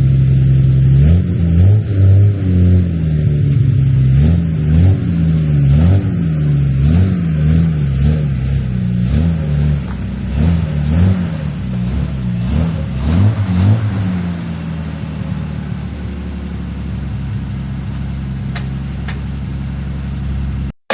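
Triumph TR6 straight-six running through a new stainless steel exhaust with a fresh back box, revved in a series of quick throttle blips, each rising and falling, then settling back to a steady idle for the last few seconds.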